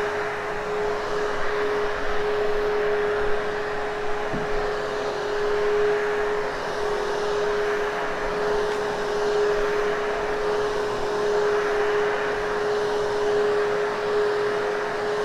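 Hoover HushTone vacuum cleaner running steadily while vacuuming carpet: a constant motor whine over the rush of air.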